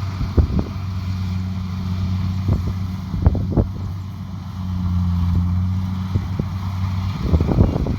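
Kubota DC70 Pro combine harvester's diesel engine running steadily under load, a low hum with scattered short knocks and rattles from the machine, a cluster of them near the end.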